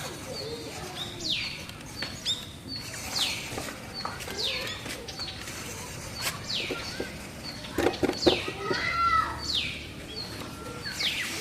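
A bird calling over and over: short high notes that fall steeply in pitch, about one a second, each with a brief higher piping note.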